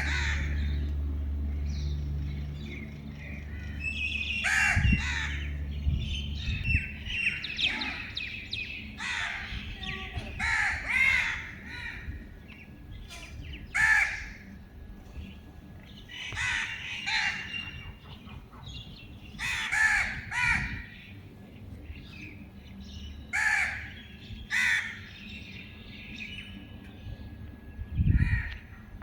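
A group of crows cawing on and off in repeated harsh calls, sometimes several overlapping. A low steady rumble sits under the first few seconds.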